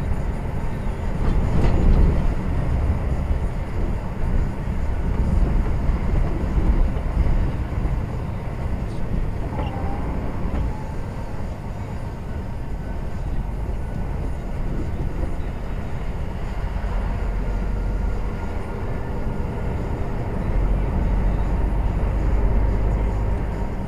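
A lorry's diesel engine running with a steady low rumble, heard from inside the cab.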